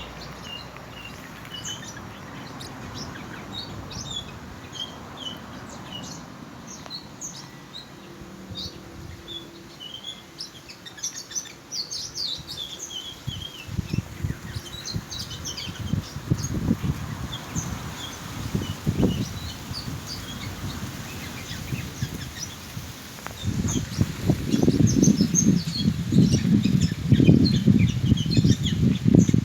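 Pacific parrotlets chirping: many short, high chirps throughout. From about halfway in, loud low rumbling bursts come in, heaviest near the end.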